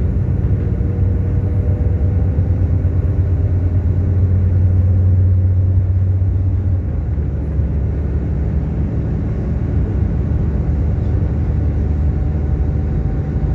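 A train's engine running with a steady low rumble. It is loudest around the middle and eases after about seven seconds.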